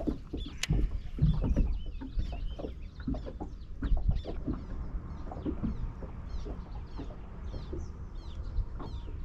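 Birds calling in many short, quick chirps over a steady low rumble.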